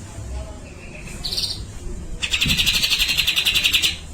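Cucak jenggot (grey-cheeked bulbul) calling: a short high note about a second in, then a loud, rapid rattling trill lasting nearly two seconds, the harsh 'besetan' burst the bird is kept for.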